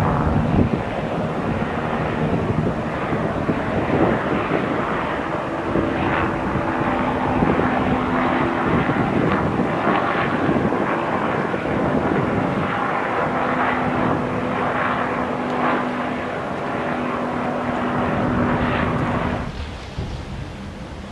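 Bell 407 helicopter's turbine engine and four-blade rotor running loud and steady, with a few steady hum tones that shift in pitch a couple of times. The noise drops off sharply near the end.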